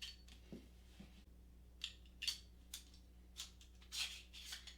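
Faint, scattered small clicks and rustles, about eight short sounds spread across a few seconds, as a staple gun and a box of staples are handled and readied.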